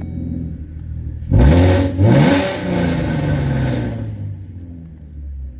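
An engine revving up twice in quick succession, rising in pitch, then running steadily and fading away.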